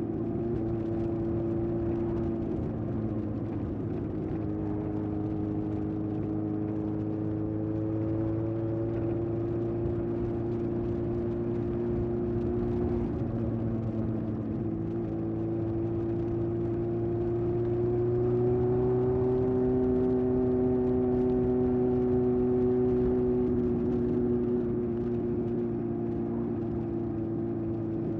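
1981 Honda CB750F air-cooled inline-four running through a vintage Yoshimura exhaust while riding at a steady cruise. Its pitch rises a little past the middle and holds a bit louder for several seconds, then eases back near the end.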